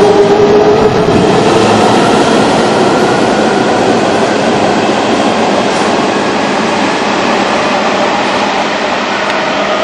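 Hanshin electric train pulling out of an underground station, with motor hum and wheel noise on the rails echoing strongly in the station. The sound fades steadily as the train runs off into the tunnel.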